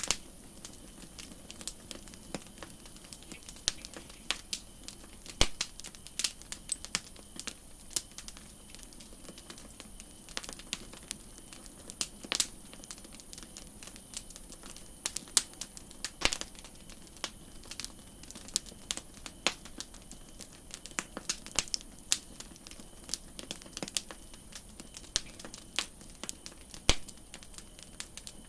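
Campfire crackling: irregular sharp pops and snaps of burning wood, a few louder than the rest, over a steady soft hiss.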